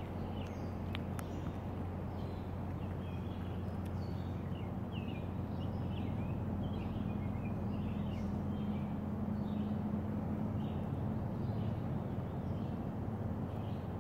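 Birds chirping repeatedly in the background over a steady low hum and outdoor noise.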